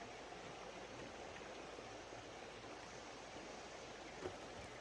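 Steady rush of a running creek, with a brief soft knock about four seconds in.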